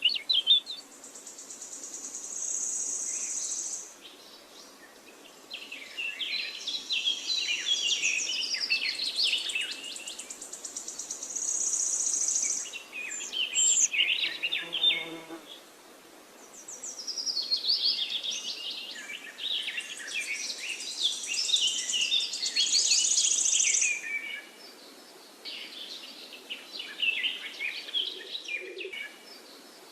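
Songbirds singing long, fast, varied phrases in two main bouts with quieter gaps between, under a thin, high buzzing.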